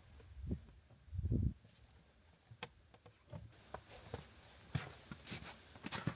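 Sparse light clicks and knocks, with a dull low thump about a second in; the clicks come more often in the second half.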